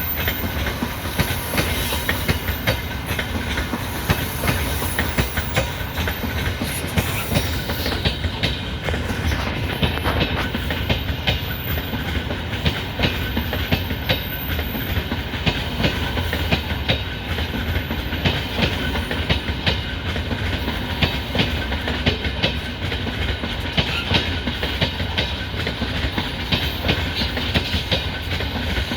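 Freight train hauled by a 3ES5K electric locomotive running along the track, its wheels clacking over rail joints in a steady, repeated knocking over a continuous rolling rumble.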